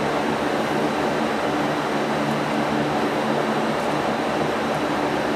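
A steady mechanical whir with a low, even hum, unchanging throughout, like a fan or motor running.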